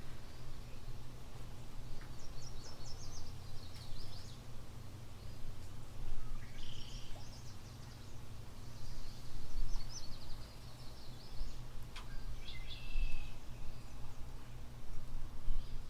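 Small birds calling in short phrases of rapid high chirps every few seconds, over a steady low background rumble, with a single sharp click about twelve seconds in.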